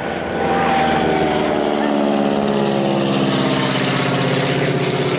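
De Havilland Beaver's Pratt & Whitney Wasp Junior radial engine running as the plane flies past. It gets louder about half a second in, then its pitch falls steadily as it goes by.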